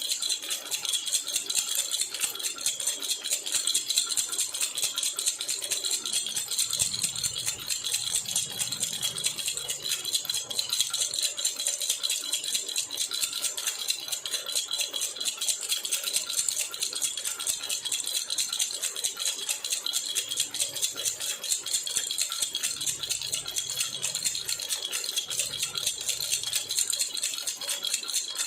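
A jhunjhuna baby rattle shaken steadily and quickly, giving a continuous bright, fast jingling with no pauses.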